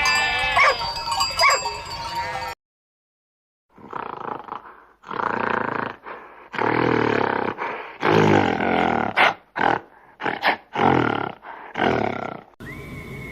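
A large animal roaring in a series of about seven rough calls, each lasting about a second. It is preceded by the tail of a flock's overlapping bleats and then a brief silence, and a steady whistling tone starts near the end.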